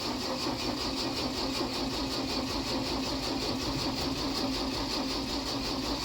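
Starter motor cranking the 1966 Ford F500's inline-six steadily with an even, rapid rhythm, the engine not catching. The battery seems too weak to start it: a jump start is called for.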